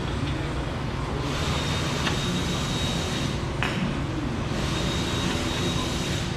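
A steady mechanical hum with two sharp metallic clicks, about two and three and a half seconds in.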